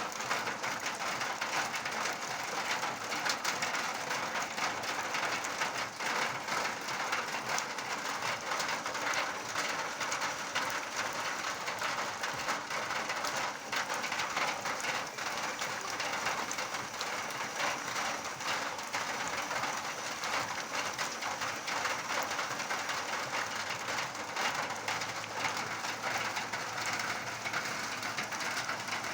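Steady rain falling and pattering on surfaces, a dense even hiss of countless drops. A low steady hum joins in near the end.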